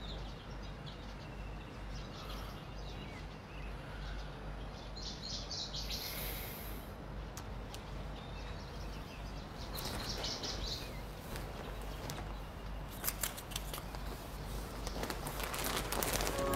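Faint birds chirping over quiet room tone, with a few soft clicks about thirteen seconds in.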